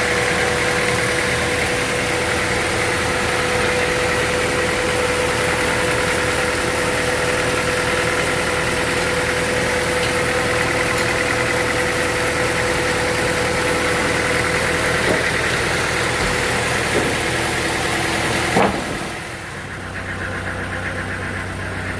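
Sawmill machinery running steadily with a held whine. Near the end there is a sharp knock, and the noise drops to a quieter, lower steady hum.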